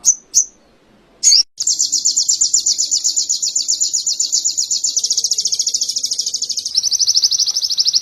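Ruby-cheeked sunbird (sogok ontong) singing a canary-like song: a couple of short high chirps, then a long, rapid, high trill that shifts its rhythm twice.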